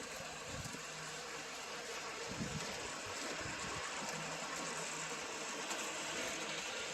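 G-scale USA Trains diesel locomotives running on outdoor track: a steady, even rushing noise with a faint steady hum underneath, and two brief low thumps, about half a second in and again about two and a half seconds in.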